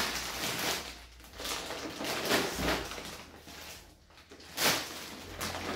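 Plastic grocery packaging rustling and crinkling in several short bursts as items are handled, the loudest about two and a half and nearly five seconds in.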